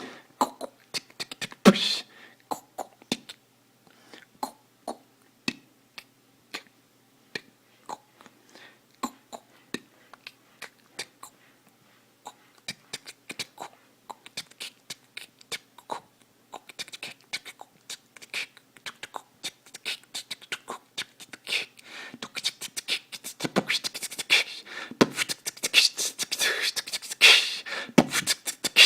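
Beatboxing: short mouth clicks and pops, spaced out at first, building into a denser, louder run of percussive sounds about two-thirds of the way in.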